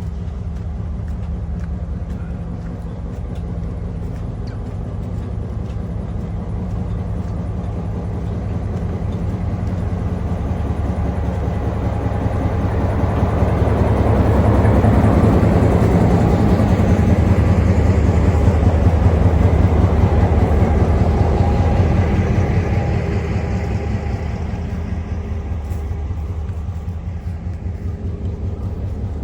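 Train running on the line: a steady low rumble with a fast, even flutter. It grows louder over several seconds in the middle, then eases back.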